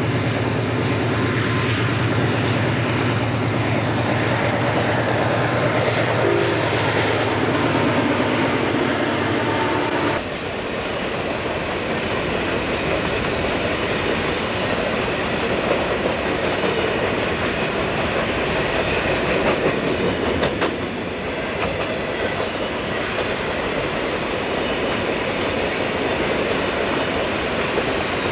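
Burlington Northern coal train passing: the diesel locomotives' engines give a steady low drone for about the first ten seconds. It then breaks off abruptly into the even rolling noise of loaded coal hopper cars, with wheels clicking over rail joints.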